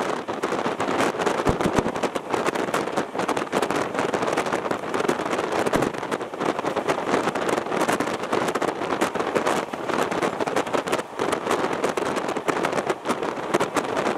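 Passenger train running at speed, heard from on board: a steady rush of wind and wheel-on-rail noise with a continuous fine rattle and clatter, and a couple of short deep thumps.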